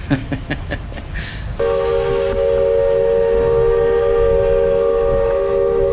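Steam locomotive whistle sounding one long steady blast of several pitches at once, starting abruptly about a second and a half in. A few sharp knocks come before it.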